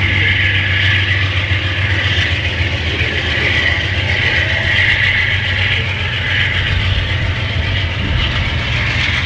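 Amtrak passenger train receding down the track, its wheels rumbling and clacking on the rails. A steady high-pitched buzz runs underneath and swells and fades every couple of seconds.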